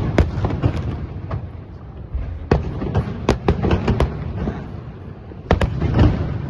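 Fireworks bursting overhead: a rapid series of sharp bangs in three clusters, near the start, in the middle, and about five and a half seconds in, over a continuous low rumble.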